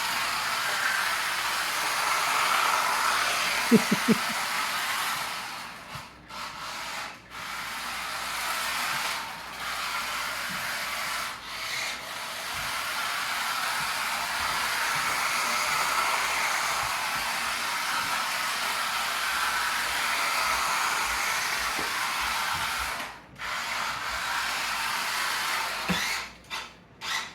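Electric motor of an RC drift car whining, with its tyres sliding on the floor as it drifts in circles. The sound drops away briefly several times as the throttle is let off. There are a few sharp knocks about four seconds in.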